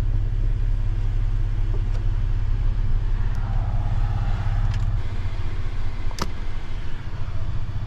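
Pickup truck driving, a steady low engine and road rumble, with a single sharp click about six seconds in.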